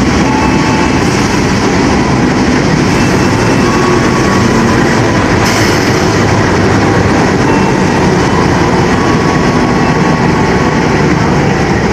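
Passenger train pulling in along a station track: steady, loud rumble of the wheels on the rails with some clickety-clack, and brief faint squeals now and then.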